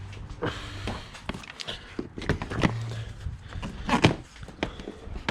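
Irregular knocks and clunks of parts being handled around an engine bay, with a low hum for a moment in the middle.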